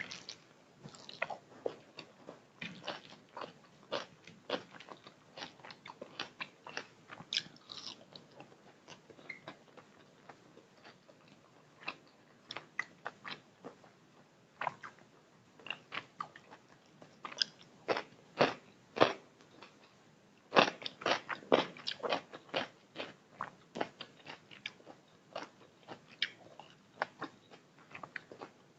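A person chewing and biting food close to the microphone, with a steady run of short, irregular mouth clicks and crunches that come thickest about seventeen and twenty-one seconds in.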